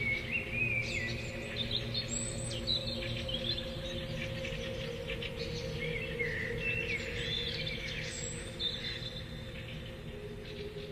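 Songbirds chirping and singing, many short, rising and falling whistled phrases one after another, over a steady low hum.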